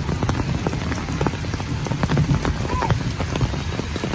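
Rain falling steadily, with many individual drops pattering close to the microphone over a low rumble.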